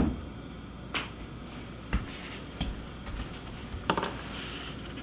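A few light knocks and thumps, roughly one a second, the first the loudest, with faint clicks between them over a low room hum.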